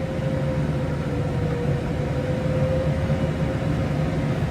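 Case IH Maxxum 150 tractor running steadily while driving a Case IH DC133 Discbine disc mower at a slow PTO speed of about 500–600 rpm. A steady whine sits over the low drone.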